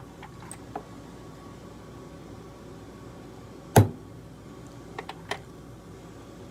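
A single sharp hammer blow on a steel letter stamp, striking a letter into a metal blank about two-thirds of the way in. Lighter clicks come before and after it as stamps are picked up and set in place.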